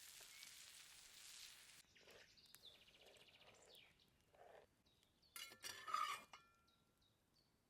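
Faint outdoor sounds in quick succession: a soft steady hiss that cuts off abruptly about two seconds in, a brief high rapid trill like a bird, then a few sharp clinks with a ringing tone, the loudest a little before six seconds in.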